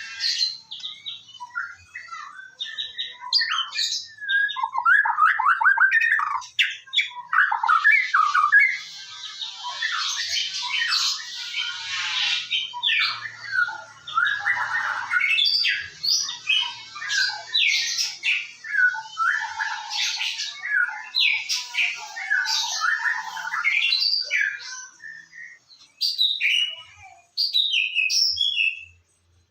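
White-rumped shama (murai batu) singing vigorously: a dense, varied run of rapid whistles, trills and harsher squawking notes, almost without a break until a couple of short pauses near the end. This is the full 'gacor' song used as a lure to set captive shamas singing.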